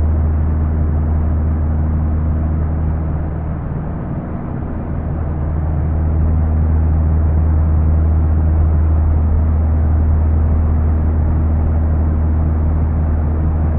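A steady, low engine drone with a deep hum, holding an even pitch throughout.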